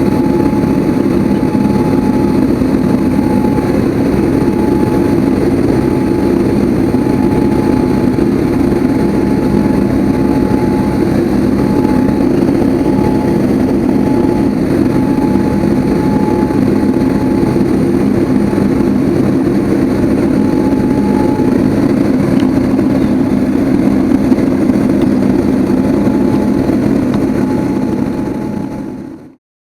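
Boeing 787-8 Dreamliner's jet engines running steadily, a loud even rumble with a steady whine above it, fading out quickly near the end.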